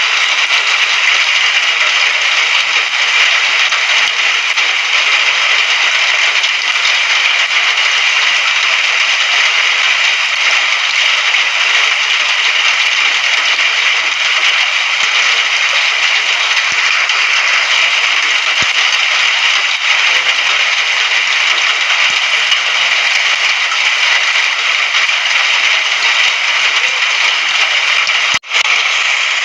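Steady rain, an even, dense hiss without letup, broken by a split-second dropout near the end.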